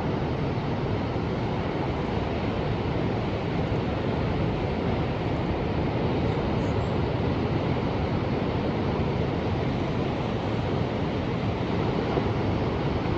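Ocean surf: a steady, continuous rush of waves with no single break standing out.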